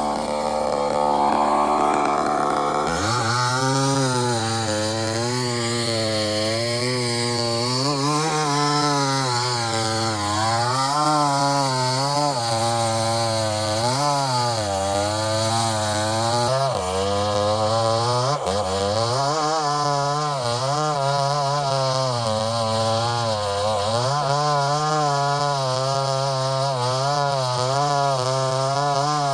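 Two-stroke chainsaw cutting through a tree. The engine runs high for the first few seconds, then drops lower, its pitch dipping and recovering every second or two as the chain bogs and frees in the wood.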